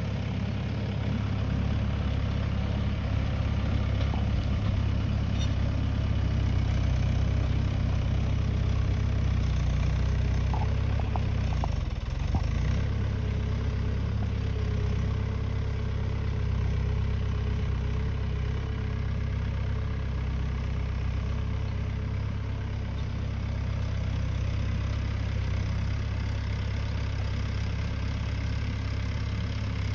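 Mahindra Yuvo Tech+ 575 DI tractor's diesel engine idling steadily, with a deep, even hum.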